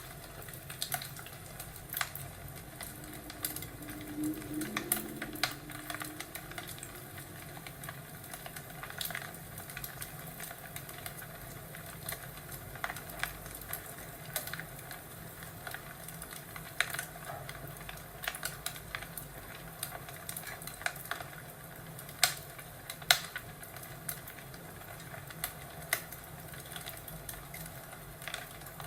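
Wood fire crackling in a fireplace: irregular pops and snaps over a steady low hiss, two louder snaps near the end.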